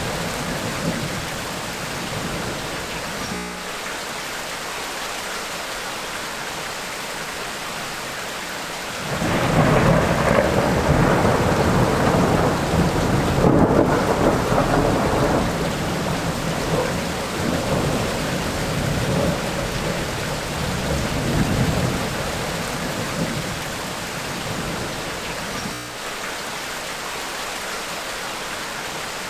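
Steady rain falling through a thunderstorm, with rolling thunder: a long rumble swells up about nine seconds in and slowly fades away over the next dozen seconds.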